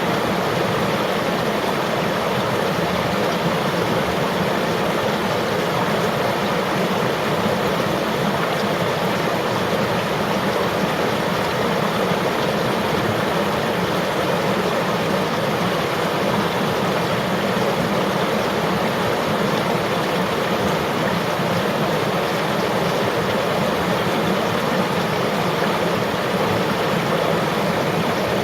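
Flowing river water, a steady rushing and babbling.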